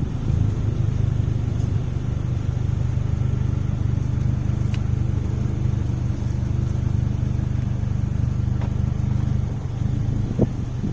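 A motor running steadily with a low, even hum, with a few faint ticks.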